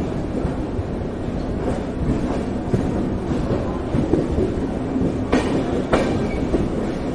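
Passenger train rolling along a station platform, heard from a coach window: steady wheel and running noise, with two sharp clacks from the wheels about five and a half seconds in.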